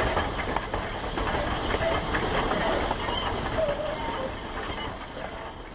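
Recording of a full-size train running on rails: a dense, steady rattle and clatter of wheels and cars on the track, fading out near the end.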